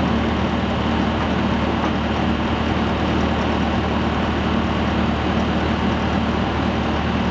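An engine running steadily at a constant speed, with a low, even drone.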